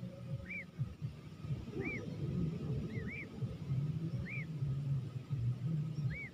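A bird repeating a short call note that rises and falls in pitch, about once a second, some notes coming in quick pairs, over a low rumble.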